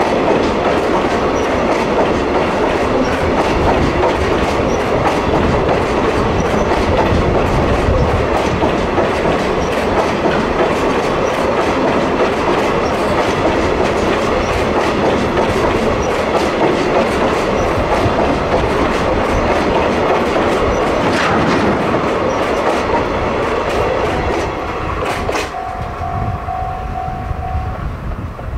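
Hoki 9500 limestone hopper wagons of a freight train rolling past at close range, wheels clicking rhythmically over the rail joints with a steady rumble. The sound eases off a few seconds before the end as the last wagons clear.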